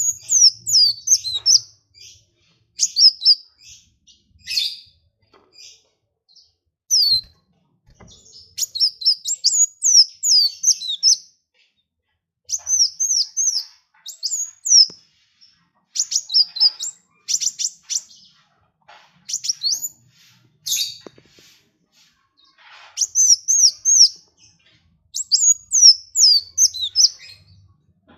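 Small songbird singing in quick bursts of high, rapid, down-slurred chirping notes, each phrase a second or two long with brief pauses between.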